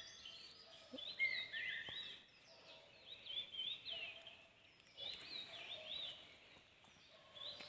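Wild songbirds singing in the early morning, with a repeated phrase of quick, up-and-down whistled notes coming back every second or two.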